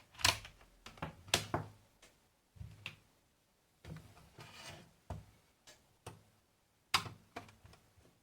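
Scattered sharp clicks and knocks, about five of them with fainter handling noise between, as a satellite receiver's case is handled to be opened.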